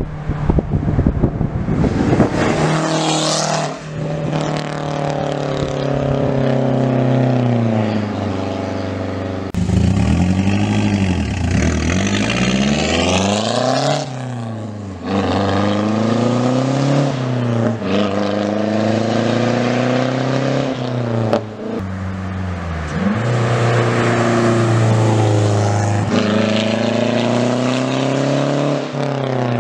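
Mazdaspeed 6's turbocharged 2.3-litre four-cylinder running through a 3-inch downpipe and 2.5-inch mid-pipe exhaust, revving up and dropping back many times. There are steadier stretches between the revs.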